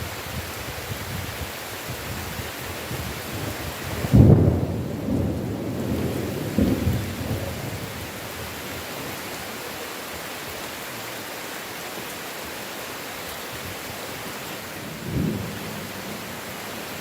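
Steady heavy rain with a sudden loud thunderclap about four seconds in that rumbles on for a few seconds, then a shorter, softer roll of thunder near the end.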